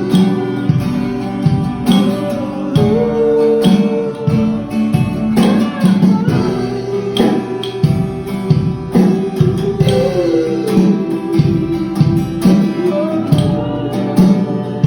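Band playing a song: strummed guitar chords over a steady beat with tambourine, and a held, gliding melody line on top.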